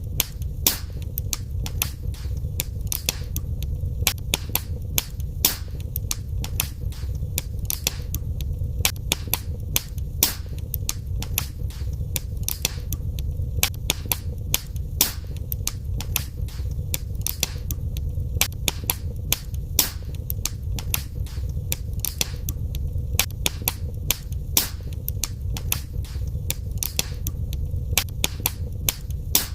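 Wood fire crackling in a fireplace: sharp irregular pops and snaps, several a second, over a steady low rumble of the burning fire.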